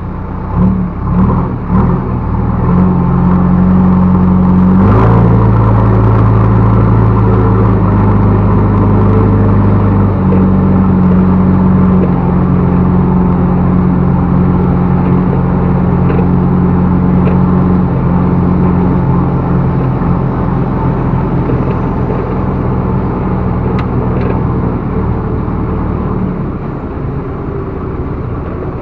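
Backhoe loader's diesel engine revving up and running hard and steady under working load, easing off near the end.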